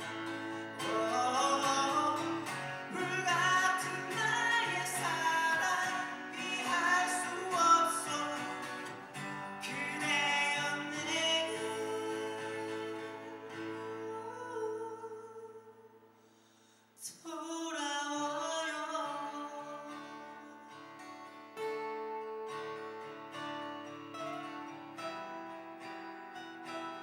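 Live performance of a ballad: voices singing over instrumental accompaniment, dying away about 16 s in. Instrumental music then comes back in with a sudden attack and plays on with steadier, held notes.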